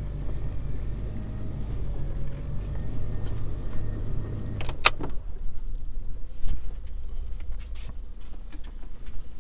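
Boat engine throttled back, running at a low idle, then stopping about five seconds in with a sharp click. After that only a faint low rumble and a few small knocks remain.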